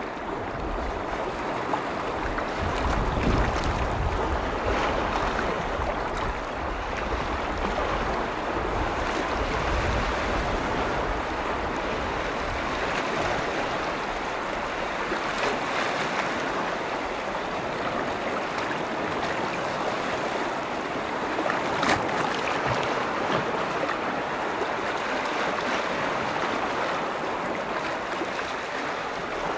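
Small lake waves washing and lapping steadily on the shore of Lake Vänern, with wind rumbling on the microphone in the first third.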